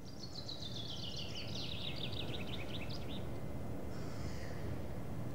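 A songbird singing one quick, falling run of short chirping notes for about three seconds, over a steady low background rumble.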